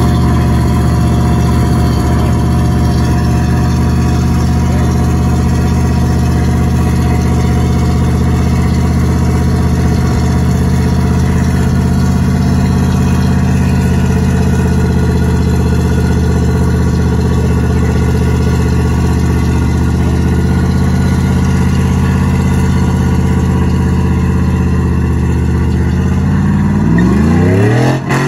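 Full-size SUV's engine held at steady high revs through a long burnout, its rear tyres spinning on the pavement. Near the end the revs drop and swing up and down as it breaks into a donut.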